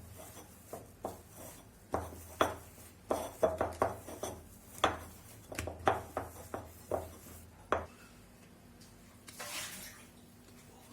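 Irregular knocks and soft thumps of risen pizza dough being kneaded in a bowl, with the bowl knocking as it is worked; they stop about eight seconds in.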